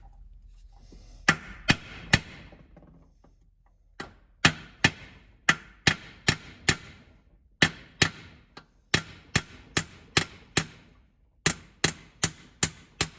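Hammer striking a punch to drive a shaft out of an Allis-Chalmers B tractor transmission case: sharp, ringing metal-on-metal blows, a few at first, then after a short pause a steady run of two or three strikes a second.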